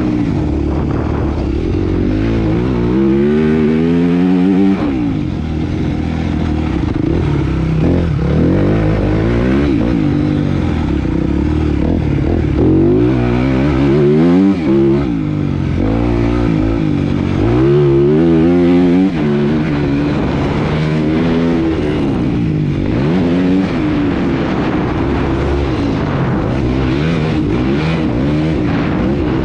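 Motocross bike engine revving hard and easing off over and over, its pitch climbing steeply and dropping back as it is ridden through the gears.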